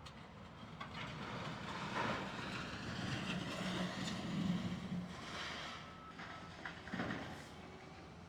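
Heavy demolition equipment at work: a diesel engine running under a rumbling, scraping clatter of concrete rubble and steel, loudest in the middle, with sharp knocks about two seconds in and again near the end.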